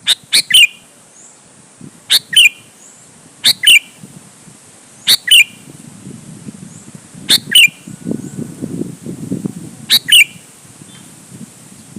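Sooty-headed bulbul (kutilang) calling: short, sharp two-note phrases repeated every one to two seconds. A low rumbling noise runs under the calls around the middle.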